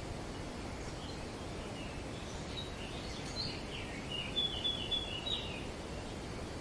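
Steady wind through tree foliage, with a run of short, high bird chirps in the middle, loudest as a quick series of calls about four to five seconds in.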